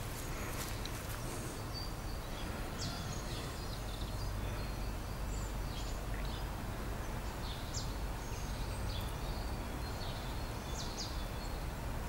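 Steady low outdoor background noise, with scattered short high bird chirps.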